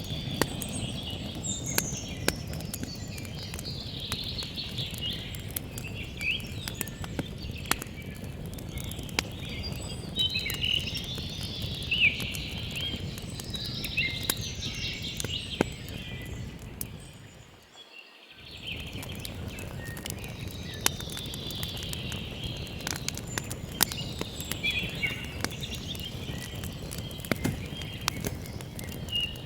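Campfire crackling with sharp pops over a steady low rush, while songbirds chirp and twitter. All of it dips out briefly and comes back about two-thirds of the way through.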